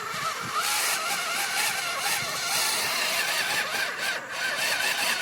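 Engine running steadily under a strong hiss, its note wavering slightly up and down.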